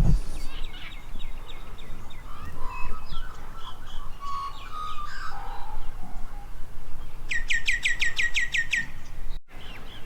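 Wild birds calling and singing, with assorted short chirps and whistles. Near the end one bird gives a fast run of about ten quick downward-sweeping notes, roughly six a second, over a low background rumble.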